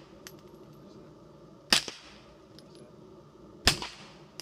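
Two suppressed 9mm pistol shots about two seconds apart from an HK VP9 fitted with a Liberty Centurion suppressor, each a sharp crack with a short ringing tail.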